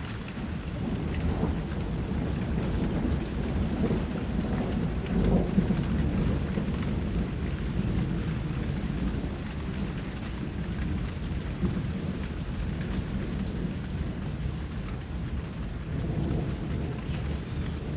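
Steady rain falling, a dense hiss with a deep low rush. It swells louder about five seconds in and again near the end.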